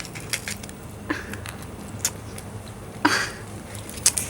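Scattered light clicks and wet squishing as a tegu lizard eats egg from a plate, with a couple of brief louder smacks.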